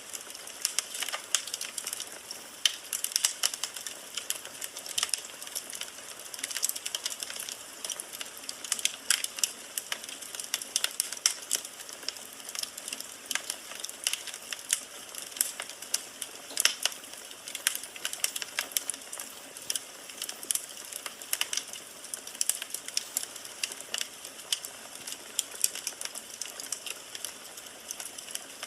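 Firewood burning in a fireplace, crackling with frequent irregular sharp pops and snaps over a soft steady hiss.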